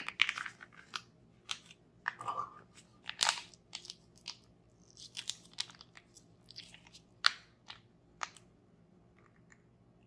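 Toy packaging and materials being handled close to the microphone: irregular crunches and crackles, with a short scrape about two seconds in, growing sparser and fainter in the last couple of seconds.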